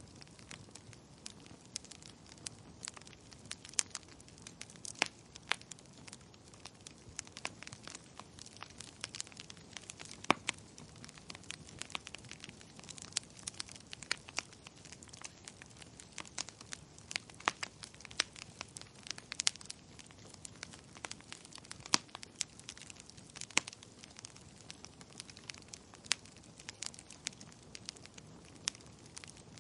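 Wood fire crackling in a fireplace, with frequent irregular sharp pops and snaps over a soft steady hiss.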